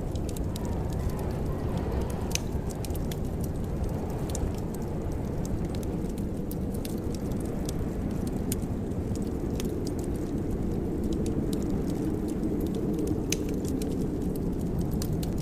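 Fireplace fire crackling: scattered sharp snaps and pops over a steady low rumble.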